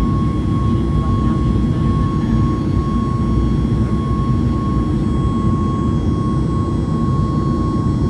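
Jet airliner engines running steadily: a deep, even rumble with a constant high whine over it.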